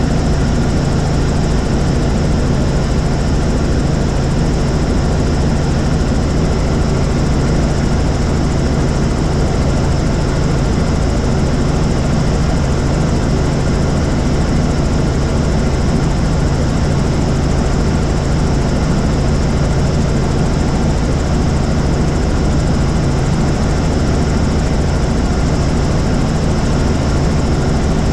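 Helicopter in flight: the steady turbine and rotor drone of cruising, loud and unchanging, with a constant low hum.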